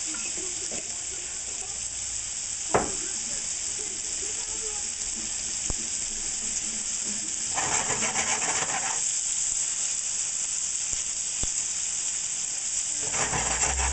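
Prosciutto-wrapped tuna and shrimp sizzling steadily in a frying pan. There is a single sharp click about three seconds in. The sizzle turns louder and rougher twice, around eight seconds in and again near the end, where the pieces are being moved by hand in the pan.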